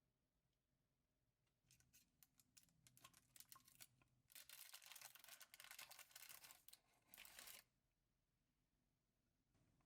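Faint crackling and crisp rustling, like material being handled or torn: scattered clicks first, then a denser stretch of rustling from about four to seven and a half seconds in, stopping abruptly.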